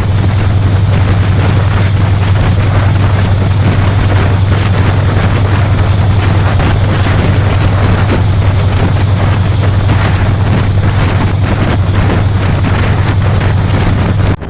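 Diesel-electric locomotive hauling an express train past at speed, heard as a loud, steady low engine drone over rushing wheel-and-rail noise, with wind buffeting the microphone. The sound breaks off abruptly at the end.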